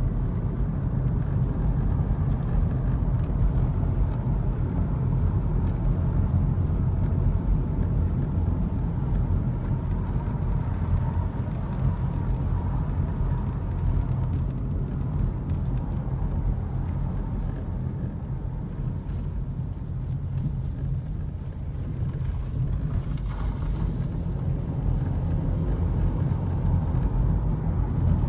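Car driving along a road: a steady low rumble of engine and tyres that dips slightly in loudness about two-thirds of the way through.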